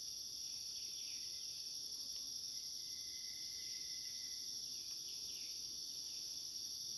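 Steady high-pitched chorus of forest insects, with faint short chirps and a thin whistled note held for about two seconds near the middle.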